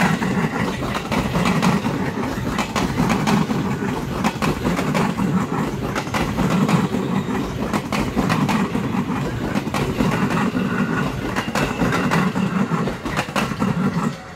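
A train passing at close range with a steady rumble, its wheels clicking rapidly and unevenly over the rail joints.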